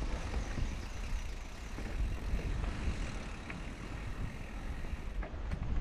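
E-mountain bike ridden along dirt singletrack with its motor switched off: wind rumbling on the microphone over tyre noise on the trail, with a few light clicks and rattles from the bike.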